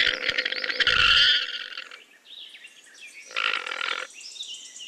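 Llama calling: a rapid rattling call for about two seconds, then a shorter one about three seconds in. Birds chirp faintly behind.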